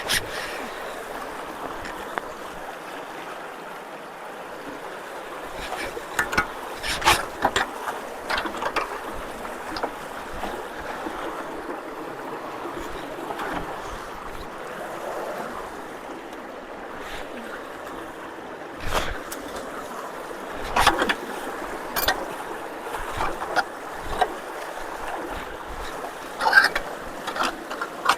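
Steady rush of rainwater pouring through a backed-up road culvert. Scattered sharp knocks and splashes come on top of it, in clusters a few seconds in, in the second half, and near the end.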